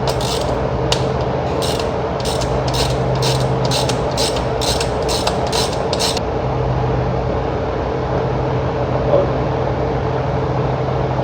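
Socket ratchet clicking in a steady back-and-forth, about two clicks a second, loosening the 18mm oil drain plug; the clicking stops about six seconds in. A steady low hum runs underneath.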